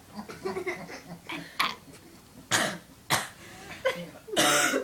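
A boy coughing several times, the last cough longer and harsher, from the burn of a bird's eye chilli he has just eaten.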